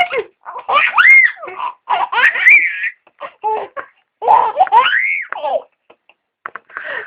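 A baby laughing in repeated bursts of giggles and belly laughs, several times over.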